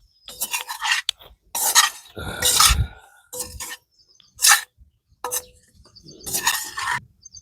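Kitchen utensils and dishes clattering and scraping as they are handled, in a series of irregular bursts.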